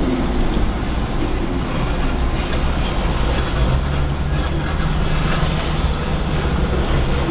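Freight train of covered hopper cars rolling past at a level crossing: a steady low rumble, heard from inside a car's cabin.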